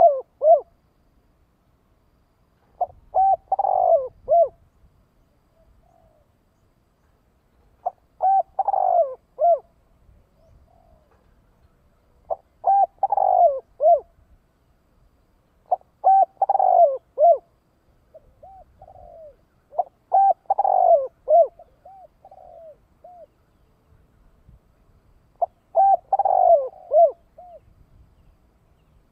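Spotted dove cooing its song, six phrases of several coos each, repeated every four to five seconds.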